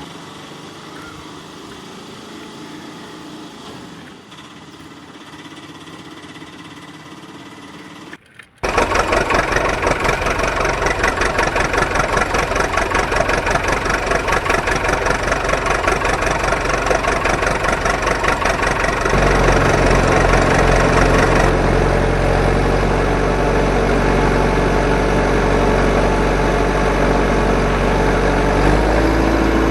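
Quiet background, then about eight seconds in a loud engine sound cuts in abruptly and runs steadily with a fast, even pulse. A deeper steady hum joins it about two-thirds of the way through.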